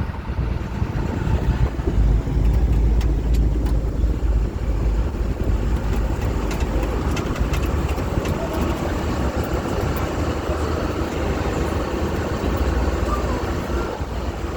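Amphibious duck tour vehicle driving over a rough land trail: a steady, heavy engine and drivetrain rumble, with scattered rattles and knocks from the body and fittings.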